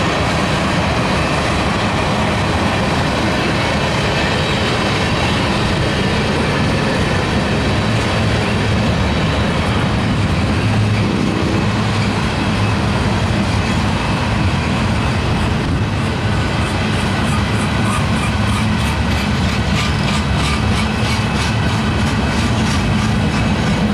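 Freight train tank cars and steel-coil cars rolling past: a steady rumble and rattle of steel wheels on rail, with rapid rhythmic clicking joining in during the second half.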